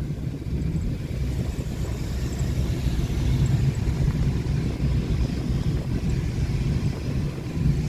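Steady low rumble of a running vehicle, mixed with wind noise on the microphone.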